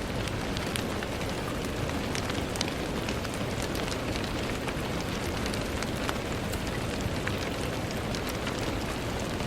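Steady rain falling on a window, with many separate drops ticking against the glass over an even hiss.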